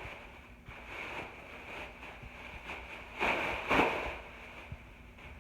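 Plastic trash bag rustling as it is handled and shaken open, with two louder crackling bursts a little past the middle.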